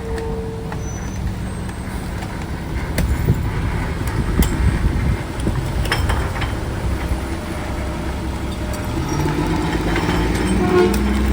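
Garbage truck diesel engine running, with several sharp knocks in the middle, then the engine revving up and getting louder near the end.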